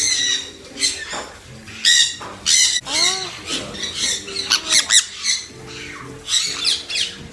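Cafe birds squawking close by: a string of short, harsh calls, with a few quick whistled notes around the middle.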